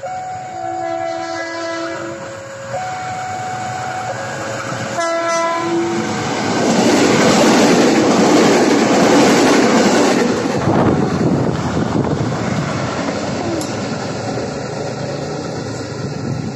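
Electric commuter train approaching and passing close by at speed. A few seconds of steady tones that change pitch in steps are followed by a short horn blast about five seconds in. Then comes the loud rush of the passing carriages, loudest between seven and ten seconds in, easing off slowly towards the end.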